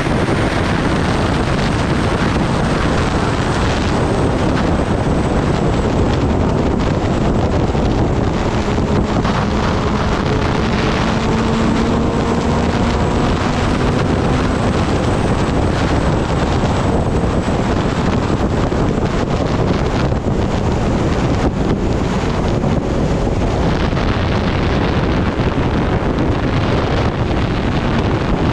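Kawasaki Ninja ZX-10R ridden at speed: heavy wind rush on the microphone, with the inline-four engine note faint beneath it, its pitch climbing slowly at times.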